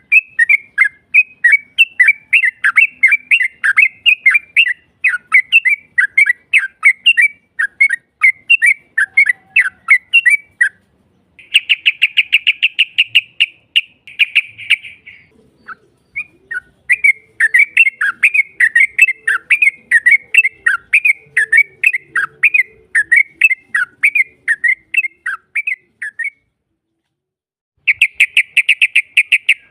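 Yellow-vented bulbul calling: runs of quick chattering notes, broken twice by a rapid buzzy trill held for a few seconds, with a short pause. It is a lure recording of the long trill used to provoke other bulbuls.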